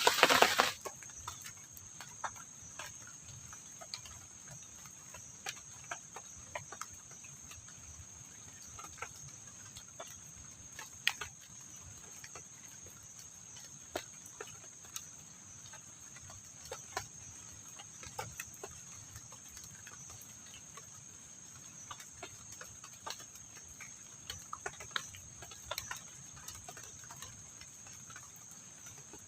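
Steady high-pitched trilling of night insects such as crickets, with scattered light ticks at irregular moments. A louder noisy sound cuts off within the first second.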